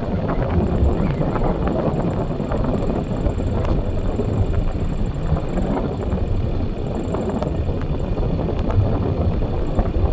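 A four-wheeler's engine running steadily, a continuous low rumble.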